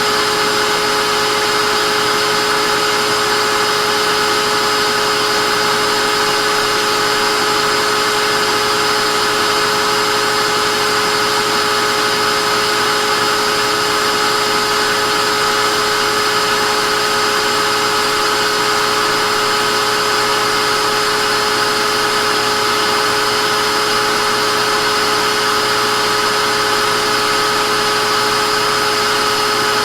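Vacuum cleaner running steadily, a loud unbroken whoosh of air with a steady motor whine.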